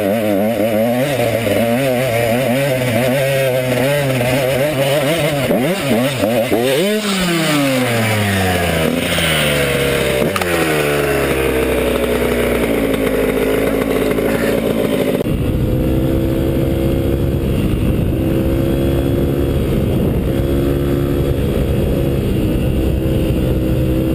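Dirt bike engine running hard with a wavering note, then several falling sweeps as the revs drop off. About fifteen seconds in the sound changes abruptly to a steadier engine note.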